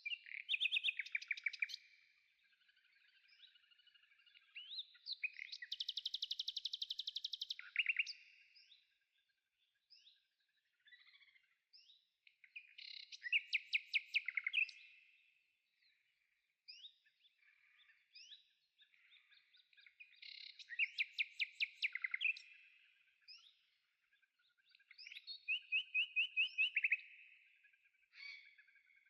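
A small songbird singing: five rapid trilled phrases of about two seconds each, roughly every six seconds, with scattered short chirps between them.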